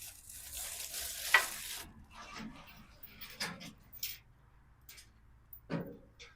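Rustling for about the first two seconds, then a handful of sharp clicks and knocks as tools and small parts are handled.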